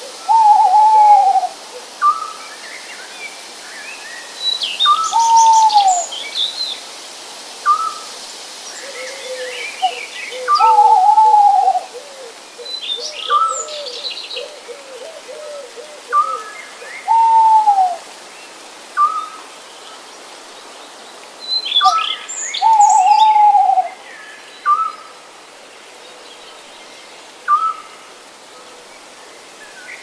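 Birds calling. A short note repeats about every second and a half, a louder drawn-out falling call comes every five to six seconds, and high chirps break in now and then, over a steady background hiss.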